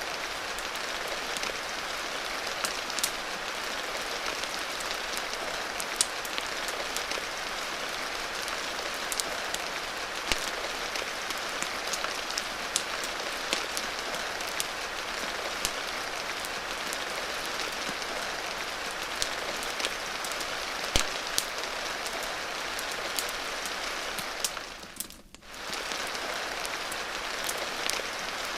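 Steady rain mixed with the scattered sharp pops and crackles of a wood fire. About 25 seconds in, the whole sound briefly fades down and comes back.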